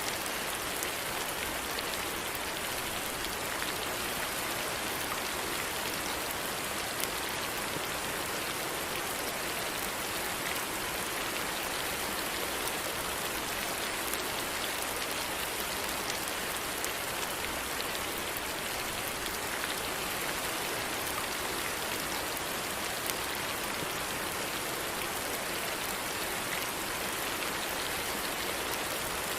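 Steady rain falling and pattering on a surface, an even hiss with a few faint drop ticks.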